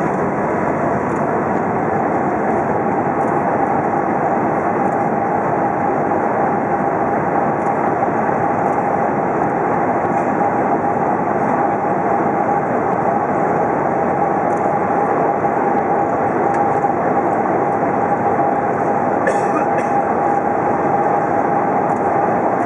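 Airbus A380 cabin noise during landing: a steady, loud rumble of engines, airflow and rolling, with a steady whine that sets in about a second in.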